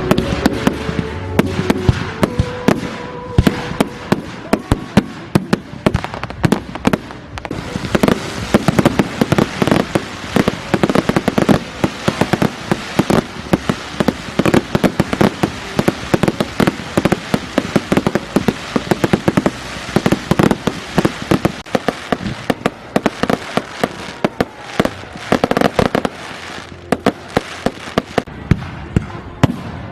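Fireworks display: a dense, continuous string of sharp bangs, pops and crackles from fireworks going off in quick succession.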